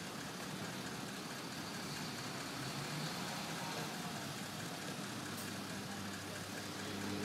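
Crane truck's engine running steadily at idle.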